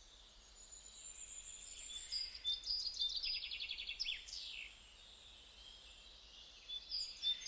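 Faint songbirds chirping and trilling in high, quick notes, with a rapid trill of repeated notes around three to four seconds in. The birds fall quiet for about two seconds, then chirp again near the end.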